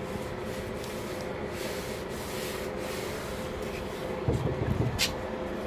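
Cloth rubbing and wiping over a truck's plastic step, working in a shine dressing, over a steady hum. A dull knock comes about four seconds in, and a sharp click about a second later.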